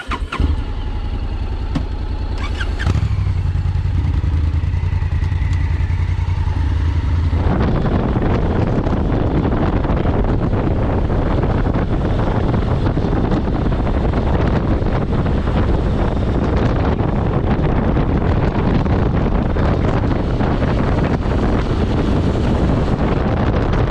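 A motorcycle engine starts and runs steadily with an even, pitched note. From about seven seconds in the bike is ridden off: the engine runs under a steady rush of wind on the microphone.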